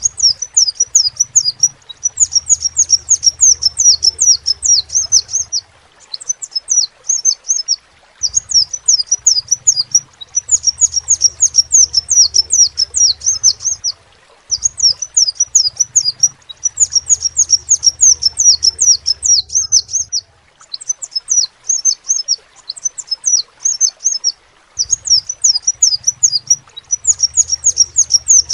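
Crimson sunbird (sepah raja) singing: rapid runs of high, sharp chirps in phrases of a few seconds, separated by short pauses.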